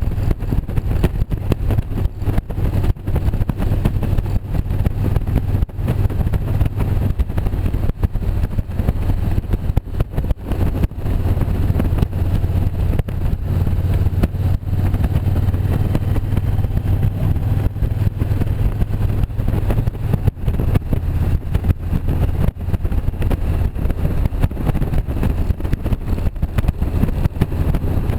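Motorcycle engine running steadily while riding, with a constant low drone and wind rushing and buffeting against the microphone.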